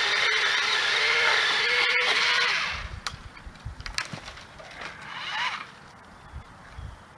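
Ryobi Expand-it 10-inch pole saw attachment on a 40-volt battery trimmer power head, its electric motor driving the chain at a steady high pitch, then cutting off about two and a half seconds in. Scattered knocks and low thumps follow.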